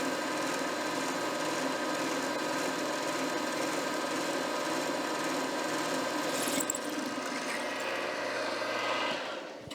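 Milling machine running steadily with a motor and gear hum while holes are started and drilled in a new lathe spindle nut, switched off and dying away near the end.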